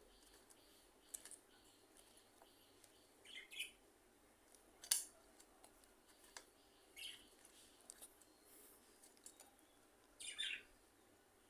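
Faint, short bird chirps every few seconds, with a sharp click about five seconds in as the loudest sound.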